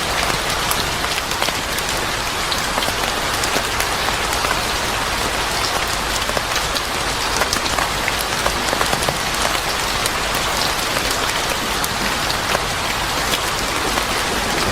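Steady rain falling on a surface: an even hiss with many small, sharp drop ticks scattered through it.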